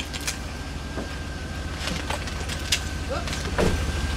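A car engine idling steadily, with a few light taps and scrapes against its iced-over body.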